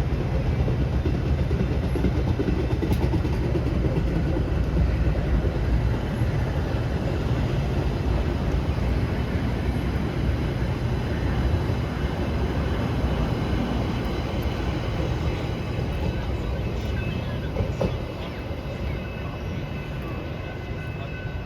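A train running past on the tracks: a steady, loud rumble of wheels on rail that eases off a little about three-quarters of the way through, with thin high steady tones coming in near the end.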